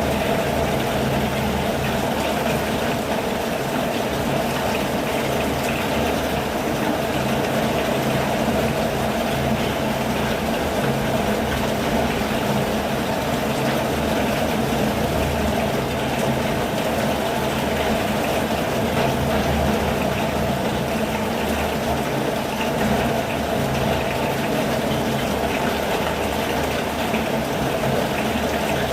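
Steady rain falling, an even continuous rush of water with no breaks or single drops standing out.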